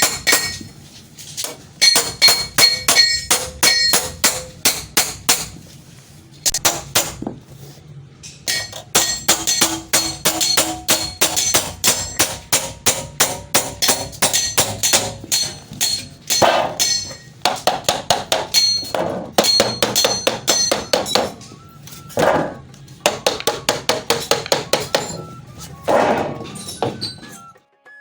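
Rapid clinking taps against a small ringing glass or metal container, several a second in runs with short pauses, like a brush knocking and stirring in a paint pot. The tapping stops abruptly near the end.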